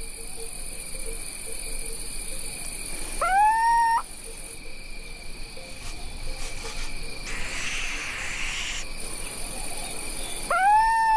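Crickets chirring steadily at night, with an owl calling twice, about seven seconds apart: each call is a short note that swoops up and then holds. A brief hiss comes in the middle.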